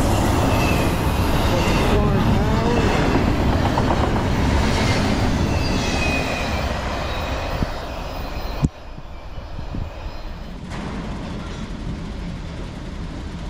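Norfolk Southern double-stack intermodal freight train rolling past close by: a steady, loud rumble of wheels on rail with thin high squeals now and then. About two-thirds of the way in a sharp click cuts it off, and a much quieter outdoor background follows.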